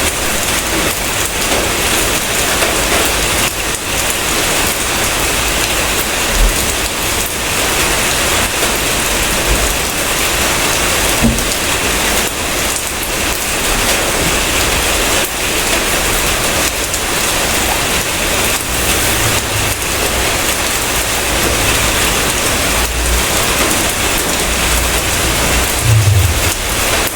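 Steady heavy rain hissing on surfaces, with a low rumble coming in over the last several seconds.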